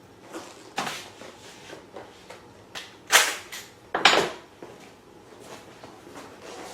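Handling noise: three short, sharp sounds, one about a second in and two louder ones at about three and four seconds.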